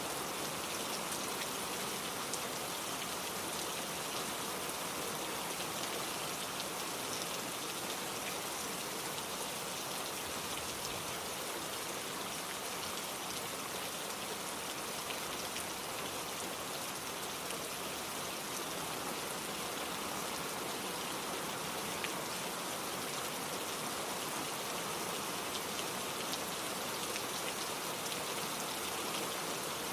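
Steady rain falling, with scattered drops pattering on a surface.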